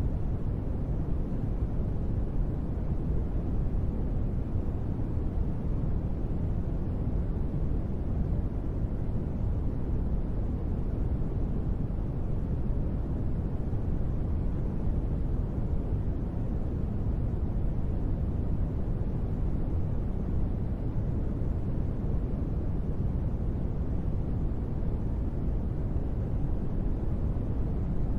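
Steady white noise for sleep: an even, unbroken rush, strongest in the low end with little hiss on top, never changing in level.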